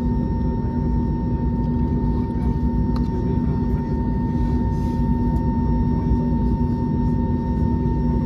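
Airbus A321neo cabin noise during taxi: a steady engine rumble with a constant low hum and a fainter higher steady tone.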